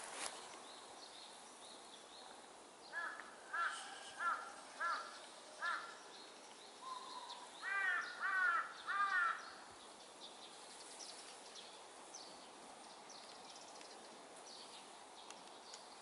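A bird giving harsh calls: five short calls about half a second apart, then three louder, longer calls. Fainter birdsong twitters in the background.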